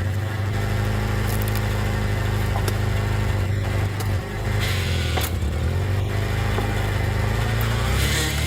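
Engine of a hydraulic log splitter running steadily with a low hum, with a few short, sharp knocks.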